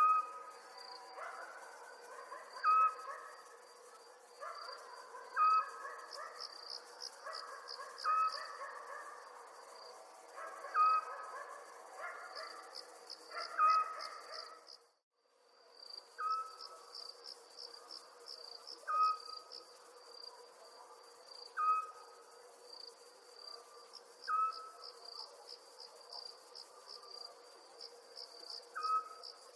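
Night chorus of crickets chirping in fast high pulses, with a lower, short call repeating about every three seconds. The whole sound cuts out for about half a second around halfway, then resumes.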